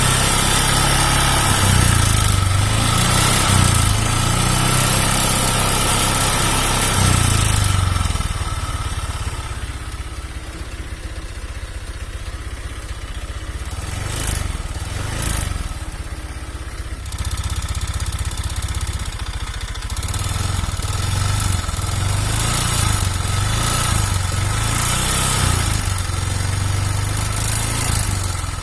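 A Honda Vario 125 scooter's single-cylinder fuel-injected engine is running. It runs harder for the first several seconds, drops to a lower, quieter run from about a third of the way in, then picks up again. The rough running is blamed on a worn piston that has grown loose in the cylinder block, which also leaves compression weak.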